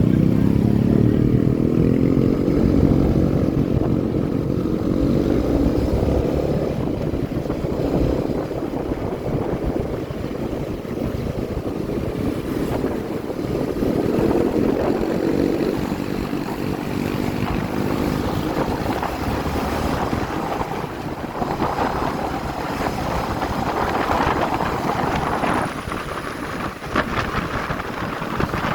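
Motorcycle engine running under way, its pitch rising and falling near the start and again about halfway as the bike speeds up and eases off, with wind rushing over the microphone.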